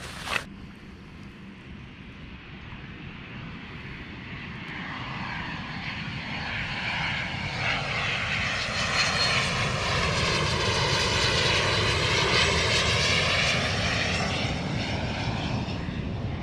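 An airplane flying over: its engine noise builds steadily for about ten seconds, is loudest around two-thirds of the way in, then fades again.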